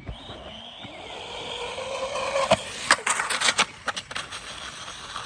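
Small electric radio-controlled car driving, its motor whine rising in pitch, then the tyres clattering over rough ground with a run of sharp knocks around the middle.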